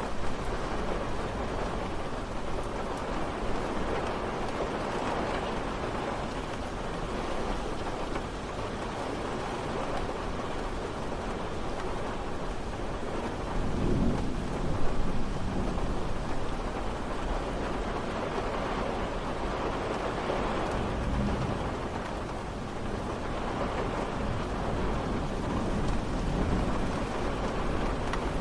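Steady rain falling, an even hiss with no breaks. A low rumble swells briefly about halfway through.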